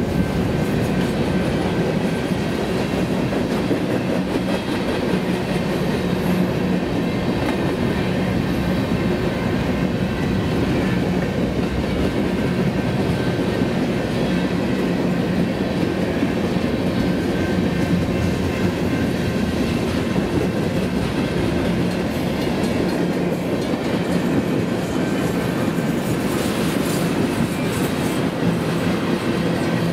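Freight train cars, covered hoppers and then tank cars, rolling past at steady speed: a continuous rumble of steel wheels on the rails, even in level throughout.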